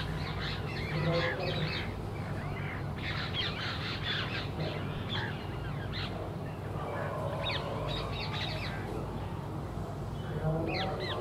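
Birds chirping and calling in clusters of short quick notes, over a steady low hum.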